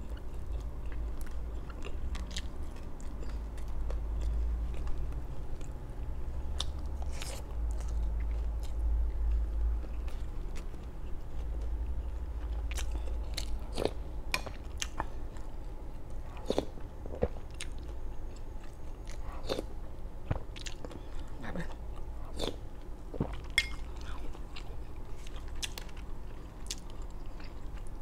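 Close-up mouth sounds of a person eating: chewing with many irregular crisp crunches from biting into crispy deep-fried galunggong (round scad). A steady low hum runs underneath.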